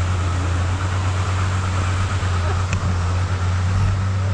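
Truck engine running steadily at an even speed, a deep unchanging drone with no revving.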